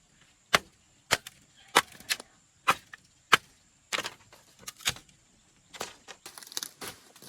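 A blade chopping palm leaves: about ten sharp, separate strikes at an uneven pace, followed near the end by rustling.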